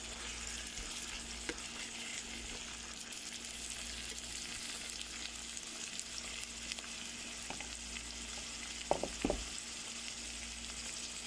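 Sliced bitter gourd and chilli-tomato spice paste sizzling steadily as they are stir-fried in a pan. Two brief louder clatters come about nine seconds in.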